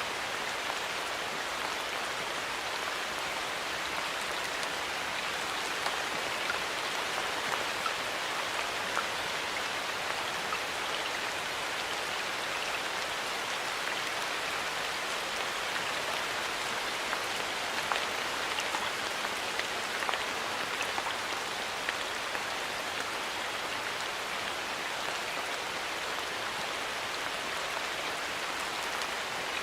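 Steady light rain falling in a forest, a continuous patter with individual drops ticking now and then.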